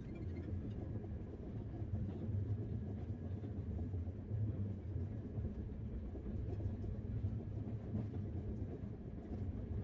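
Moving train: a steady low rumble.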